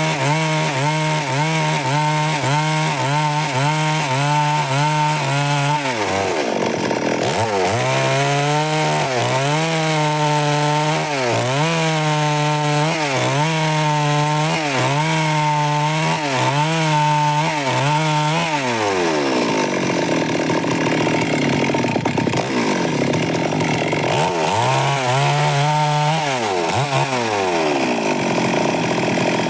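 Stihl MS 382 two-stroke chainsaw cutting wood under load. The engine pitch dips and recovers in a quick, regular rhythm as the saw is worked through the cut. Later it sags lower and unevenly, then picks up again briefly near the end.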